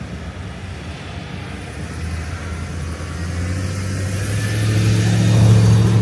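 Motor vehicle engine and road noise: a low engine hum that swells to its loudest near the end.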